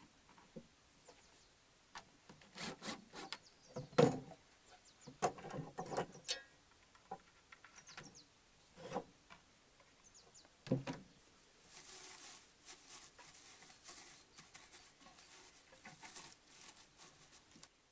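Wooden pieces being handled, knocked and set down during hand woodworking, then a run of rasping strokes on wood starting about twelve seconds in and lasting about five seconds.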